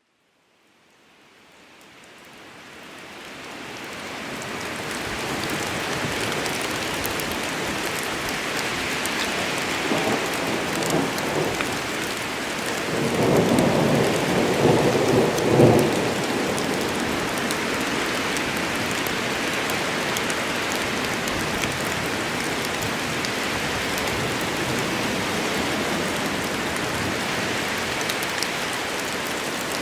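Rainstorm in a forest: steady rain falling, fading in over the first few seconds. A rolling rumble of thunder swells and peaks about halfway through.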